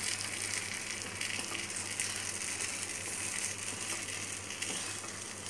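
Egg-dipped bread slice sizzling in hot ghee on an iron tawa: a steady frying hiss with faint crackles.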